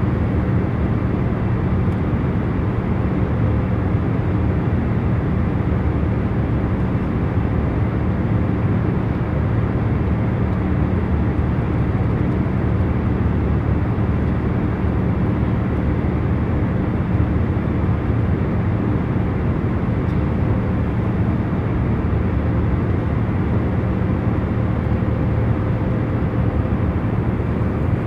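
Airliner cabin noise in cruising flight: a steady low hum and rush of air, with a few faint steady tones in it.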